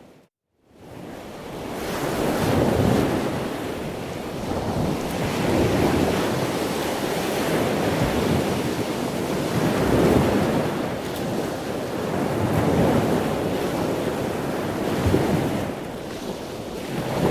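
Sea waves rushing with wind buffeting the microphone, swelling and easing every few seconds, after a brief dropout at the very start.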